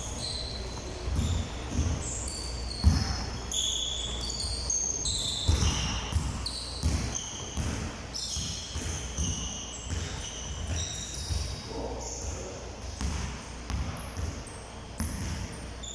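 Basketballs bouncing on a gym floor in irregular thumps, with short high sneaker squeaks on the court, echoing in a large hall.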